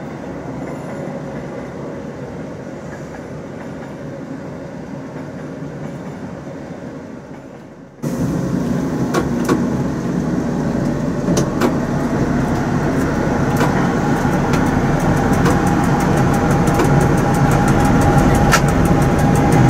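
Train running noise heard from inside the cab of a Ge 6/6 II electric locomotive: first a passenger train's carriages rolling past alongside. About eight seconds in the sound jumps louder to the locomotive's own running noise, which keeps rising and carries a string of sharp clicks that come faster near the end.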